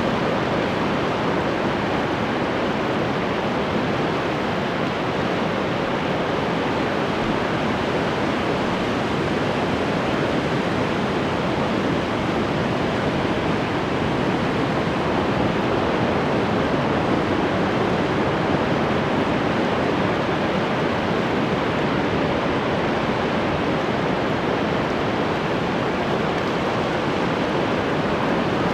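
Ocean waves washing on the shore: a steady, even rush of surf with no single breaker standing out.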